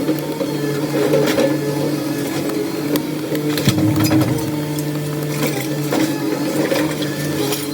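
A machine running with a steady hum, the hum dropping back for a second or so in the middle, with scattered knocks and clatter over it.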